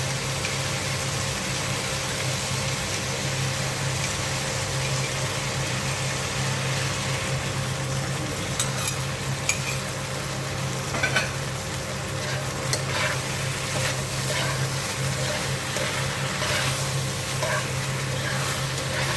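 Stir-fry sizzling in a pan with a steady hiss as a thickener is stirred into the sauce. From about eight seconds in, a spatula clicks and scrapes against the pan. A steady low hum runs underneath.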